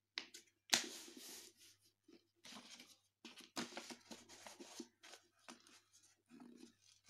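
A sheet of paper being handled and folded, rustling and crinkling in short irregular bursts, with one sharp crackle under a second in.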